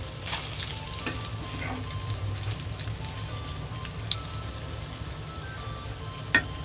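Egg-coated mutton keema cutlets shallow-frying in oil on a flat tawa: a steady sizzle, with a few light taps of the spatula on the tawa as the cutlets are turned, the sharpest about six seconds in.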